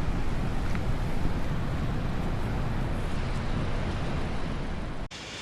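Wind buffeting the microphone outdoors, a steady rumbling noise that cuts off sharply about five seconds in.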